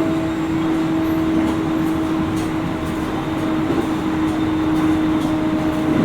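Interior running sound of a JR East 701 series 5500 electric multiple unit, heard in its motor car: a steady hum with a constant tone over the rumble of wheels on rail, at a steady speed.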